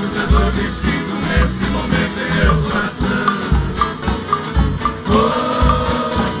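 Live Brazilian caipira country band playing an instrumental passage between sung verses, instruments over a steady, regular beat.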